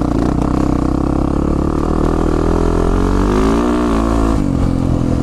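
Yamaha 450 dirt bike's single-cylinder four-stroke engine running as the bike is ridden. The engine pitch climbs about three seconds in and falls back shortly after.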